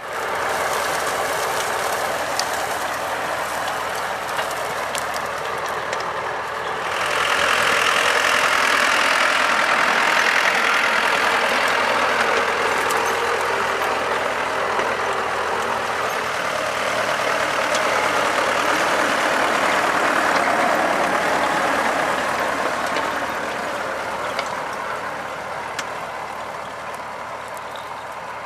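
T-40AM tractor's diesel engine running steadily, growing louder and brighter about seven seconds in and easing off toward the end.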